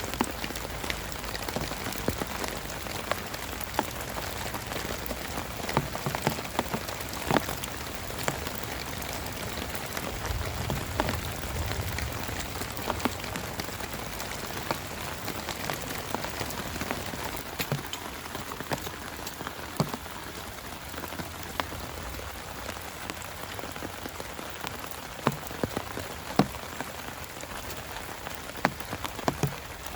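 Heavy rain drumming on a camping tarp: a steady hiss with many sharp, separate drop strikes. A brief low rumble comes about ten seconds in.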